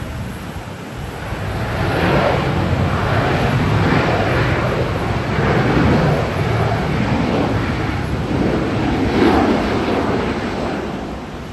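Jet airliner landing close by, its engine roar swelling about two seconds in, holding loud with a rushing, gusting texture, then easing near the end.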